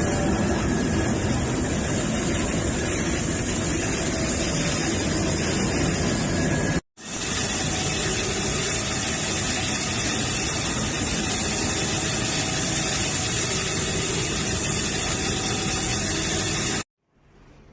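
A machine running loudly and steadily with a dense hiss, with no rhythm or pitch changes; it drops out abruptly about seven seconds in, resumes straight away, and stops abruptly near the end.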